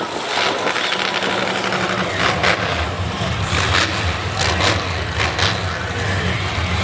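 Large truck engine running steadily, its low note growing stronger partway through, with several short sharp noises on top.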